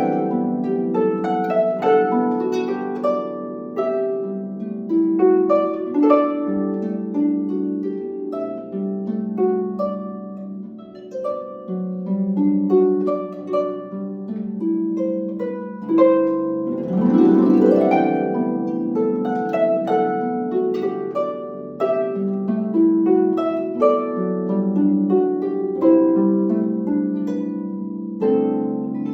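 Solo harp playing a melody over ringing plucked chords, with an upward glissando across the strings about seventeen seconds in.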